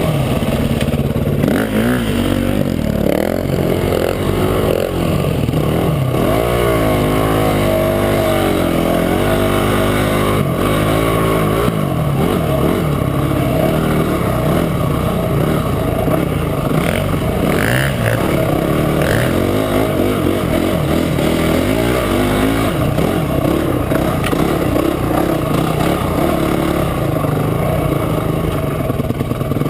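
Trail motorcycle engine running under way, its revs rising and falling over and over through the first two thirds, then holding steadier.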